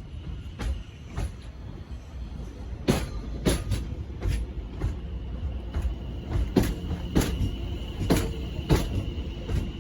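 Class 710 Aventra electric multiple unit arriving, its wheels clacking over rail joints and points in a repeated rhythm over a low rumble. The clacks grow louder about three seconds in, and a steady high whine runs with them from there on.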